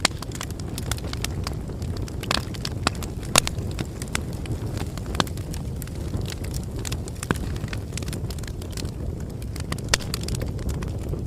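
Bonfire burning: a steady low rumble of flames with irregular sharp crackles and pops from the wood, the loudest about a third of the way in.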